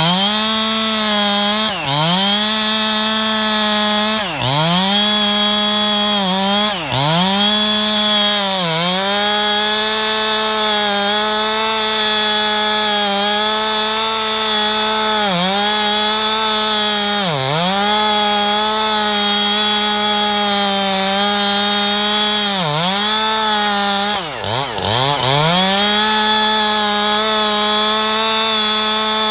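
Two-stroke chainsaw held at full throttle while rip-cutting a log lengthwise. Its engine note dips briefly every few seconds as the chain bogs down in the cut, then climbs back up.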